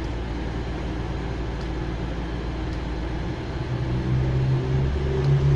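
Diesel train engines of a Class 222 Meridian multiple unit, running steadily at first, then powering up about three and a half seconds in with a louder low engine note as the train starts to pull away.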